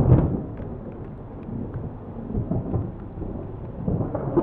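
Thunder: a loud clap at the start that rolls on as a low rumble, swelling again near the end, over the hiss of heavy rain.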